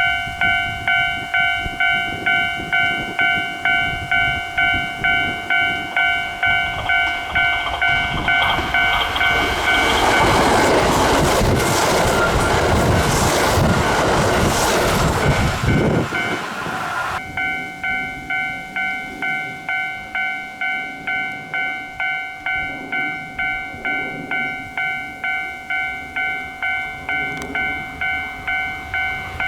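Railway level-crossing warning bell ringing in steady pulses, about two a second. From about eight seconds in to about seventeen seconds in, a Kintetsu train passes close by, its loud rush drowning the bell, which then carries on ringing.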